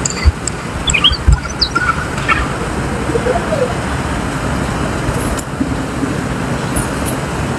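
A few short bird chirps in the first half, over a steady loud rushing noise like road traffic. Two low thumps come in the first second or so.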